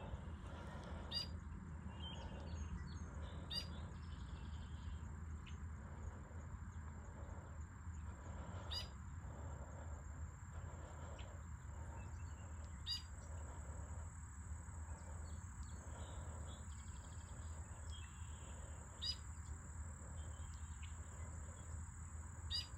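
Quiet outdoor ambience: short bird chirps every few seconds over a steady low rumble and a thin, steady high-pitched whine.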